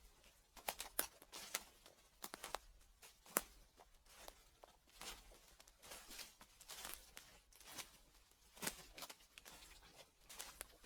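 Footsteps on dry fallen leaves: faint, uneven crunching and crackling as the leaves are trodden, in irregular clusters of sharp crackles about every second.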